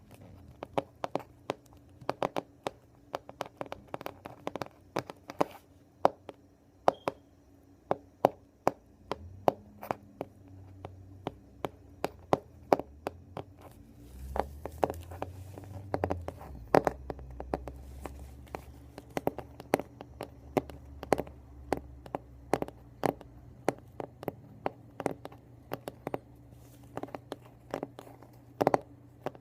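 Long fingernails tapping and clicking on a hardcover book: quick, irregular taps, several a second. A low background rumble runs underneath for several seconds around the middle.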